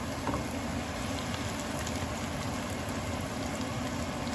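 Boneless chicken sizzling in hot oil and onion masala in a frying pan, a steady hiss.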